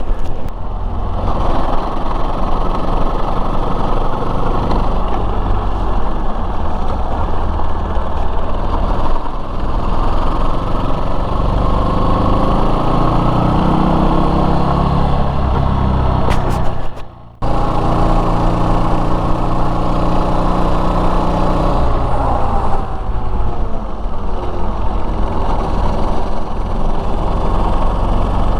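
Yamaha Serow 250 motorcycle's single-cylinder engine running under way, its note rising and falling with the throttle. The sound drops out abruptly for a moment about seventeen seconds in, then resumes.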